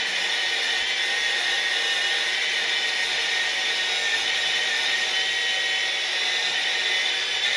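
Power tool fitted with a steel wire brush running steadily against a stone wall, a continuous motor whine over scouring noise.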